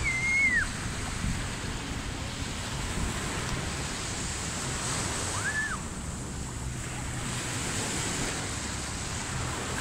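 Ocean surf washing steadily onto a beach, with wind buffeting the microphone. Two short high calls cut through it, one at the start and one about halfway.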